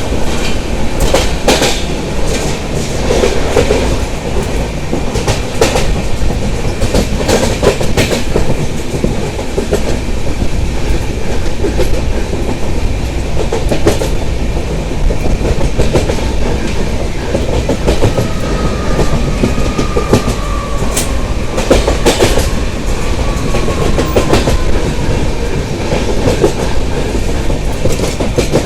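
Mumbai suburban local train running at speed, heard from on board: a steady heavy rumble with the clickety-clack of wheels over rail joints. A faint thin whine slides slightly downward for several seconds past the middle.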